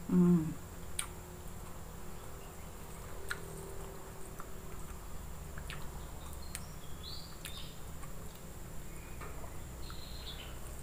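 A person eating rice and jengkol stew by hand, chewing quietly with scattered small clicks of mouth and fingers. A short hummed "mm" at the start is the loudest sound, and a few faint high chirps come around the middle and near the end.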